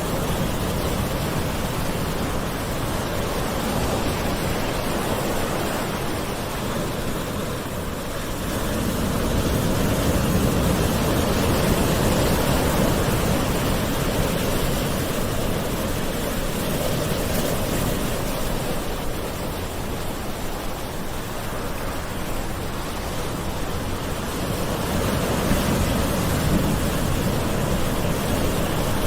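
Gentle ocean waves washing onto a shore in a continuous hiss, swelling slowly as each wave comes in and easing off again.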